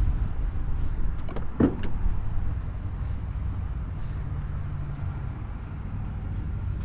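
1992 GMC K1500's 5.7-litre 350 V8 running steadily with a low exhaust rumble, through what sounds like a Flowmaster muffler. A brief higher sound is heard about a second and a half in.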